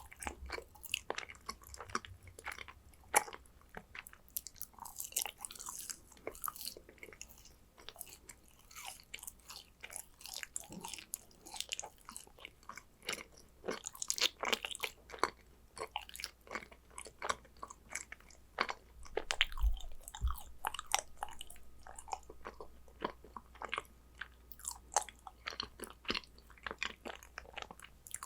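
Close-up chewing and biting of yakgwa, Korean fried honey cookies: continuous moist, crackly mouth sounds with many small sharp clicks. Two brief low thumps come a little after the middle.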